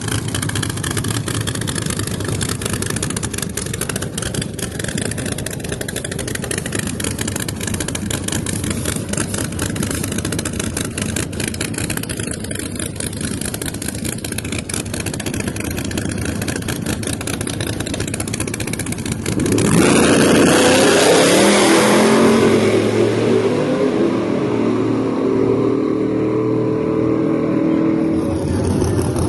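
Drag cars idling with a rough, crackling engine note. About twenty seconds in, a car launches at full throttle with a sudden loud blast. Its engine note then falls as it pulls away down the track.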